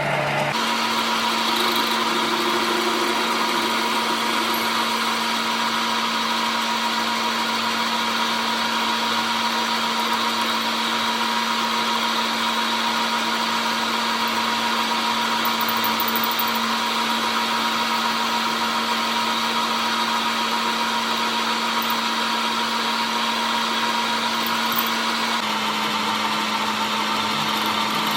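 A workshop machine's motor running steadily with a constant hum and a broad whirring noise; its pitch drops slightly near the end.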